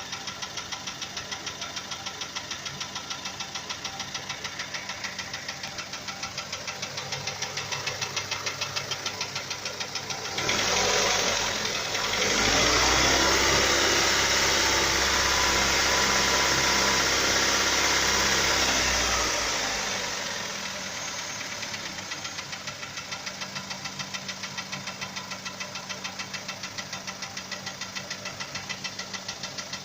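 Hyundai Sonata's Beta four-cylinder petrol engine idling with a steady, rhythmic knock. It is revved up from about ten seconds in, held for several seconds, then drops back to the knocking idle. The knock began suddenly after a spark-plug thread insert was fitted in the third cylinder.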